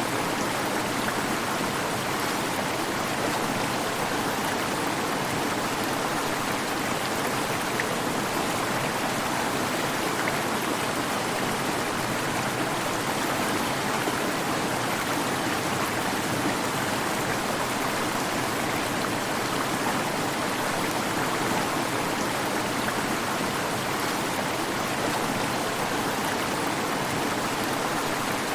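Waterfall: falling water rushing and splashing, an even, unbroken noise at a steady level.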